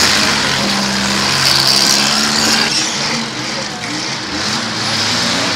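Engines of several mid-size demolition derby cars running and revving as the cars push against one another, with a few engine notes rising and falling.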